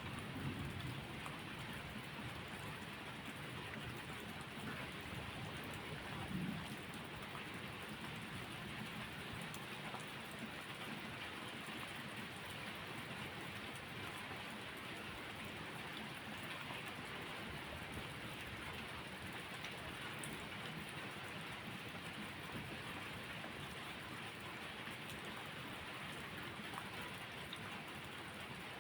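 Steady rainfall, an even hiss throughout, with a brief low rumble just after the start and again about six seconds in.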